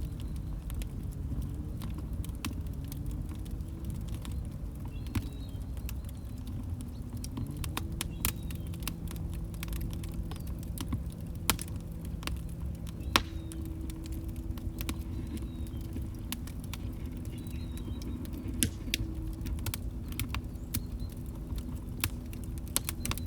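Log fire crackling: a steady low rumble of burning wood with frequent small snaps and pops, a couple of sharper pops about halfway through.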